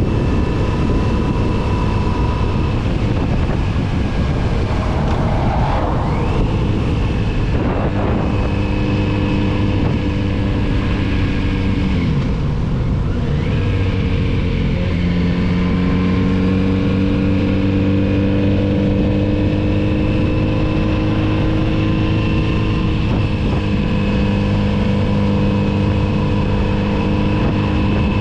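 Kawasaki Z900RS inline-four engine running under way, its pitch rising and falling with throttle and gear changes, a dip and climb again about halfway through.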